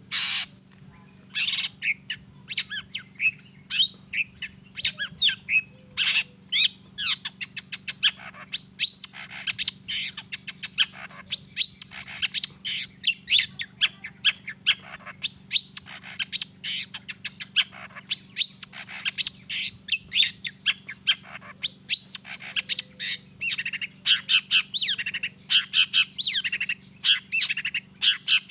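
Long-tailed shrike in full song: a fast, unbroken run of short, scratchy squawks and chirps, packed closer together near the end.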